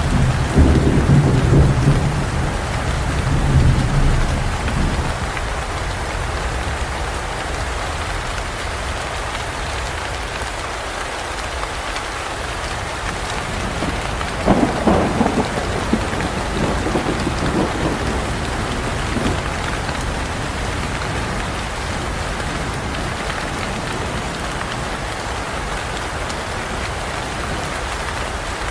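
Steady rain with thunder: a low rumble fading over the first few seconds, then a sharper thunderclap about halfway through, followed by smaller rolls of thunder.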